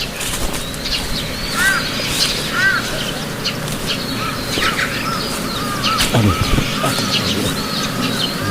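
Several birds calling together: a repeated short arched chirp about once a second, mixed with scattered higher, quicker calls.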